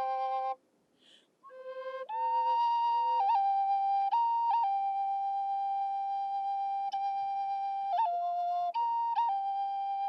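A flute playing slow, long held notes with quick grace-note flicks between pitches. It breaks off for about a second and a half near the start, then resumes.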